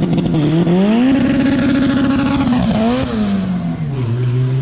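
Acura Integra's four-cylinder engine revving hard as the car accelerates past. The pitch climbs over the first second, holds, then drops away with a brief rise as it passes.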